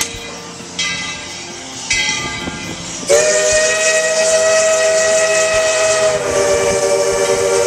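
Steam locomotive's whistle: a long, loud chord-like blast starting about three seconds in and held, dropping slightly in pitch near the end, over hissing steam. Two short tones, about a second apart, come before it.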